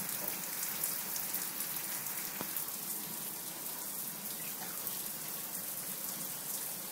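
Shower running: a steady spray of water hissing and pattering.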